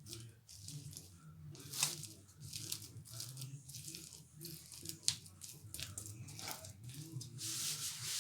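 Irregular crunching and crinkling handling noises, a run of short rustles and sharp clicks that thickens into a longer rustle near the end, over a faint steady low hum.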